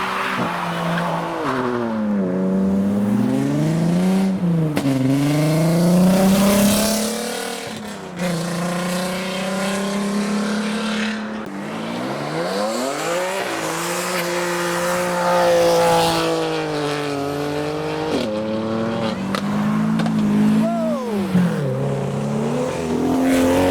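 Modified car engine revving hard, its pitch climbing and dropping again many times, with tyres squealing as the car is driven hard.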